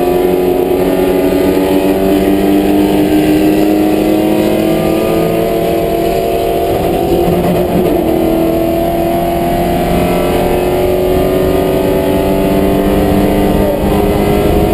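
Racing Corvette's V8 engine at sustained high revs, heard from inside the cockpit, its pitch climbing slowly and steadily as the car accelerates, over road and wind noise.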